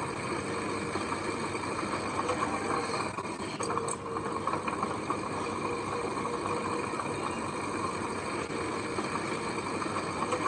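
Diesel engine of heavy earthmoving machinery running steadily, with a constant hum and no change in revs.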